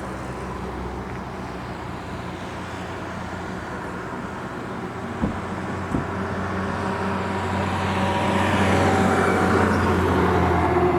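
Boeing 737 jet engines rumbling steadily as the airliner comes in to land, growing louder to a peak and then easing, with a faint whine that slowly falls in pitch. Two brief knocks about five and six seconds in.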